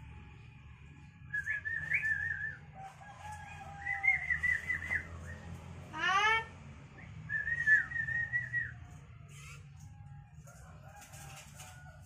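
Birds calling in three wavering phrases of about a second each, with a short rising whistle about six seconds in, over a low steady hum.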